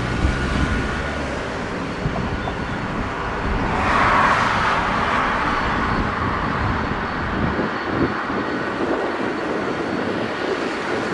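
Jet engine noise of an Airbus A380-800 and its four Rolls-Royce Trent 900 engines, a continuous roar that swells to its loudest about four seconds in and then eases a little.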